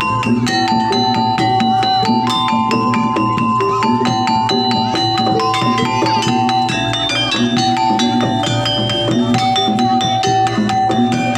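Live jaranan music: a dense, fast beat of drums and struck metal percussion under a melody of long held notes. It runs steadily at full volume.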